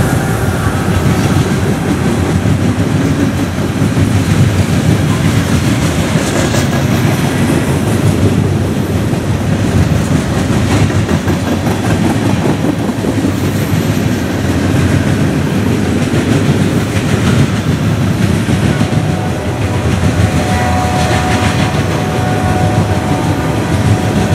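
Freight cars (covered hoppers, boxcars and a tank car) rolling past close by: a steady loud rumble of steel wheels on rail, with the clatter of wheels over the track. A faint thin whine shows in the last few seconds.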